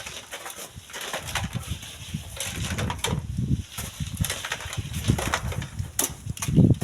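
Strong gusty wind buffeting the microphone: an uneven low rumble that rises and falls, with scattered short crackles, loudest near the end.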